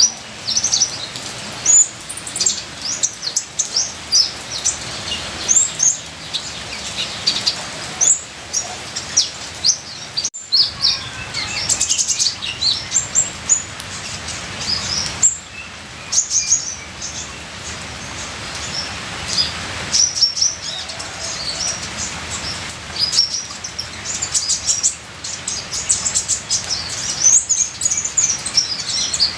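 Kolibri ninja sunbird singing a fast, continuous run of short, high chirps and twittering trills, over a steady hiss of trickling water. The song breaks off for a moment about ten seconds in.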